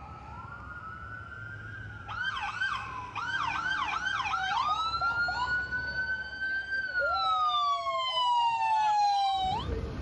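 Emergency vehicle siren: a slow wail that switches to a fast warble about two seconds in, then returns to a long rising-and-falling wail. A second siren overlaps near the end, and the sirens cut off suddenly just before the end.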